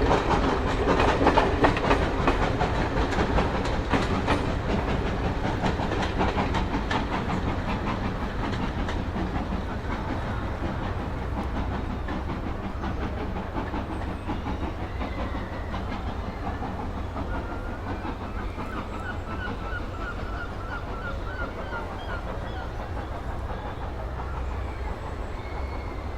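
Steam train running, its locomotive chuffing and its wheels clattering on the rails in a quick, even rhythm, fading steadily as it goes. A faint wavering high tone comes in briefly about two-thirds of the way through.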